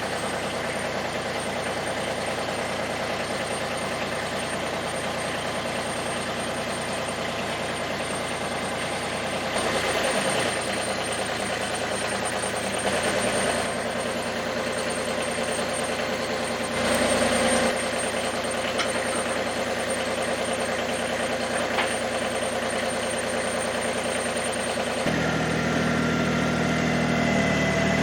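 Massey Ferguson GC2300 sub-compact tractor's diesel engine running steadily at idle, with brief surges about ten, thirteen and seventeen seconds in. Its note changes near the end.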